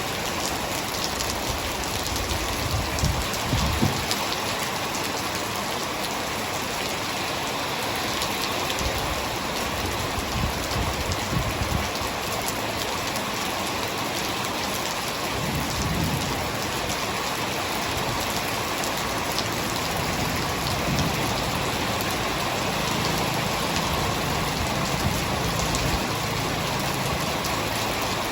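Heavy rain falling steadily: a dense, even hiss of drops hitting surfaces, with a few low swells underneath.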